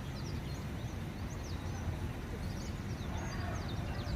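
Many small birds chirping in quick, overlapping high calls over a steady low outdoor rumble.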